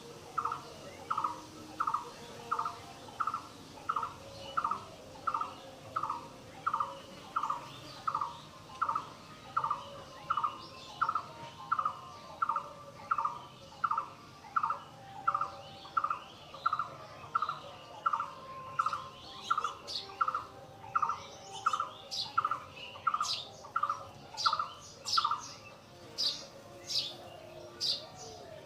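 A bird calls one short note over and over at an even pace, about three notes every two seconds, and stops about 25 seconds in. From about 19 seconds in, other birds add short high chirps.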